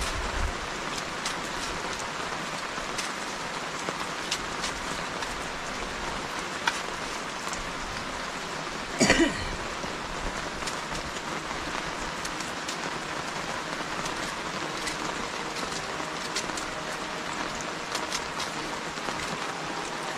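Steady rain falling, with scattered sharper drip ticks. About halfway through, a brief loud pitched sound cuts in for under a second.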